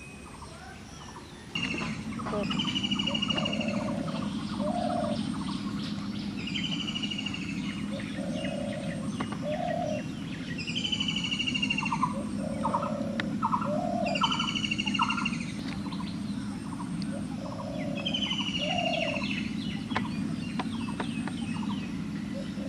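Birds singing: a phrase with a high trill repeats about every four seconds, with lower two-note calls between, over a steady low hum that comes in about a second and a half in.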